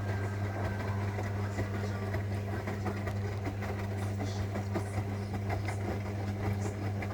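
Zanussi washing machine running: a steady low hum with rattling over it.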